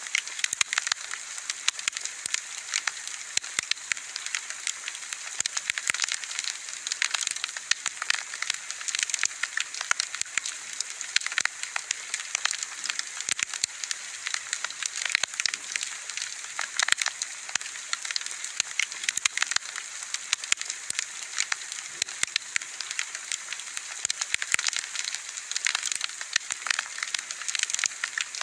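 Wood fire burning with steady, irregular crackling and popping over a soft hiss.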